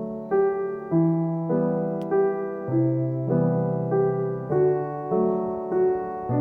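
Background piano music: an even, unhurried run of notes, about one every half second or so, in broken chords over a changing bass.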